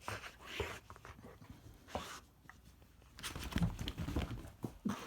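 Scattered rustling and light knocks of pets moving about among toys and wrapping paper, busier a little past the middle.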